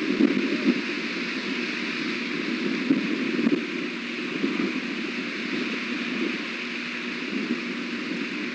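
Strong wind buffeting the nest camera's microphone: a steady rushing noise that swells in gusts, with a constant hiss above it.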